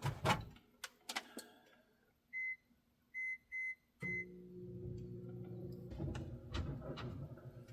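Microwave oven being started: a few clicks as the door is shut, four short keypad beeps, then the oven starts up with a steady hum on the last beep as it heats a cup of water.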